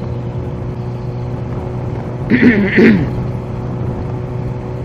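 Kawasaki Z H2's supercharged inline-four running steadily at cruising speed, a steady hum with a couple of held tones over it. A short vocal sound from the rider cuts in about halfway through.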